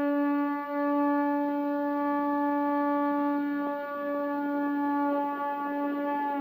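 A wind instrument sounding one long, steady horn-like note, held without a break and dropping slightly in pitch near the end.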